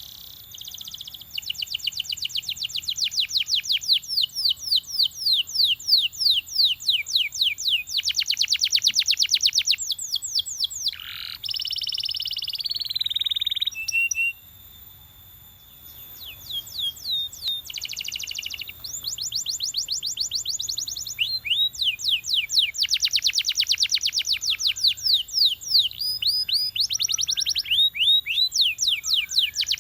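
Belgian canary singing in phrases of fast, repeated pitch sweeps, several a second. About halfway through comes a sustained buzzy roll, then a short pause, and the rolling song resumes.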